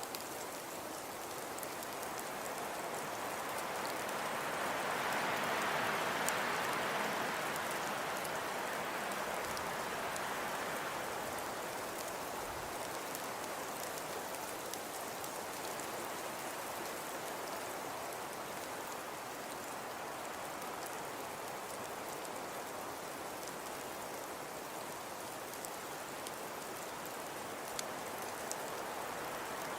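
Steady soft hiss of falling snow, sprinkled with fine faint ticks, swelling louder for a few seconds about five seconds in and then settling back.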